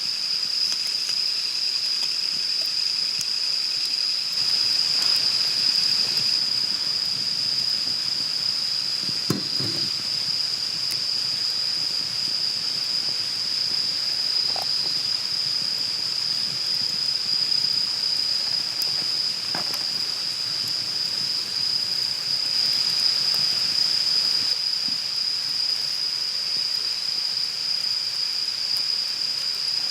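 Insects in the forest keeping up a steady, high-pitched drone over a soft background hiss, with a few faint clicks and a knock about nine seconds in.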